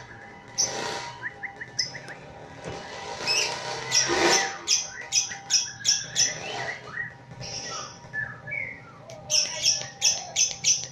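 Lovebird chattering in short, shrill chirps, sparse at first and then a fast run of repeated chirps near the end.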